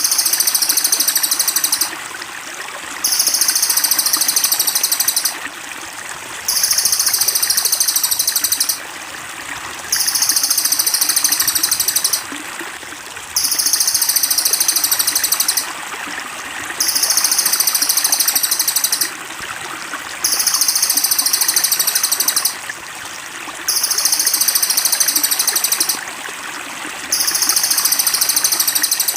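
Water trickling steadily under a high, buzzy bird trill about two seconds long. The trill repeats at an even pace, about once every three and a half seconds, like a looped songbird-training recording.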